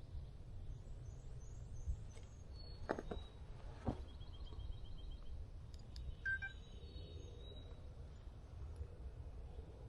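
Small songbirds singing and calling, with short high notes and a quick trill about four seconds in. Two soft knocks sound about three and four seconds in, over a steady low rumble.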